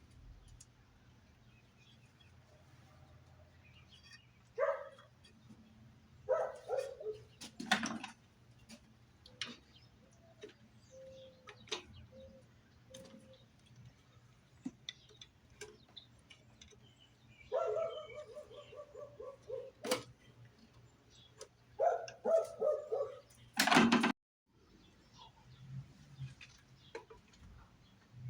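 An animal calling several times in short pitched bursts, one of them a quick pulsing run, with a few sharp knocks in between and a faint steady low hum underneath.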